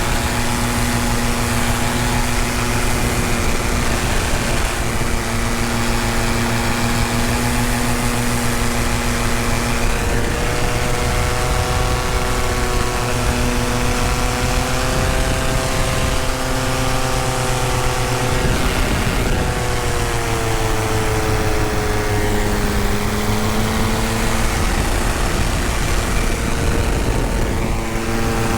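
Tandem paramotor engine and propeller running steadily, its pitch stepping and drifting slowly up and down several times with the throttle.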